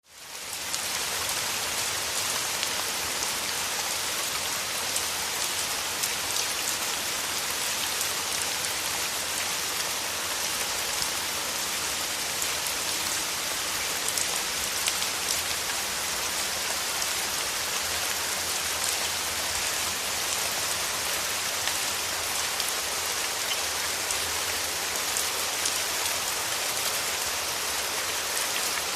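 Steady heavy rain falling on a surface: a dense, even hiss with fine ticks of individual drops in it, fading in over the first second.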